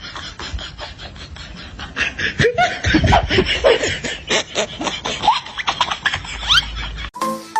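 People laughing and snickering, with scattered clicks and knocks; a bright, jingly tune cuts in abruptly near the end.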